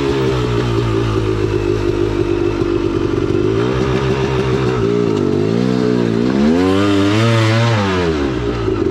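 KTM 300XC-W two-stroke single-cylinder dirt bike engine running at low, steady revs, then revved up and back down about five seconds in.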